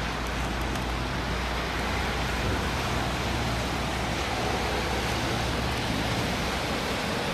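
Car driving, a steady rush of engine and road noise over a constant low hum.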